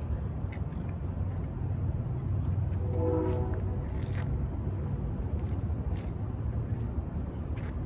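Steady low rumble with a few faint clicks, and a short hummed tone about three seconds in.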